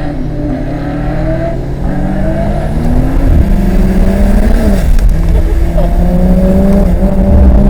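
A car's engine accelerating hard on a race track, its pitch climbing and dropping back at each gear change, about three and four and a half seconds in, and getting louder as it comes closer.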